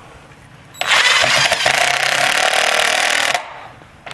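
DeWalt 20V Max cordless driver running under load, driving a 2-inch wood screw into a 2x4. It starts about a second in, runs for roughly two and a half seconds and then stops.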